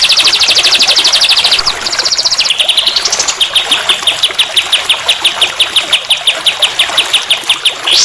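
Songbird song played as a tutor recording, made of rapid repeated chirps. It opens with a very fast trill, then after a short rising run settles into a long, even series of chirps several a second at one pitch.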